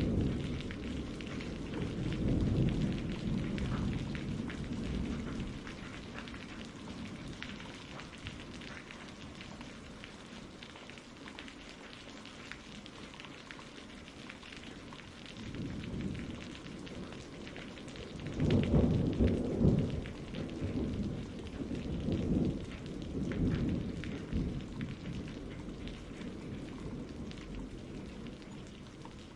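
Steady rain falling, with thunder rumbling low: a rumble dies away over the first few seconds, and another builds from about halfway, loudest a few seconds later, then fades.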